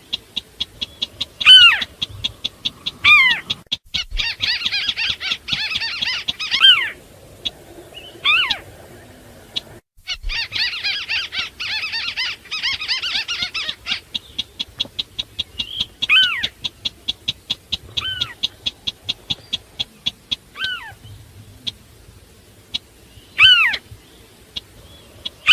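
Crake calls played as a bird lure: the sintar beker and the white-browed crake. Loud calls that fall steeply in pitch repeat every second or two over a rapid run of high pips, about five a second. Two long, dense chattering bouts come a few seconds in and again near the middle.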